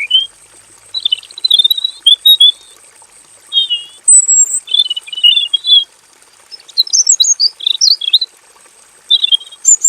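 Male red-billed leiothrix singing: a string of short phrases of quick, warbling high notes, each lasting about half a second to a second, with brief pauses between them.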